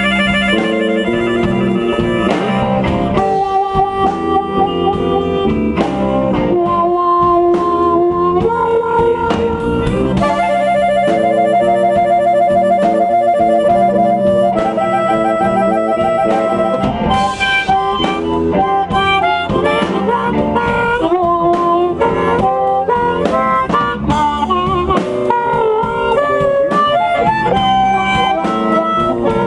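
Blues band playing an instrumental solo break, with no singing.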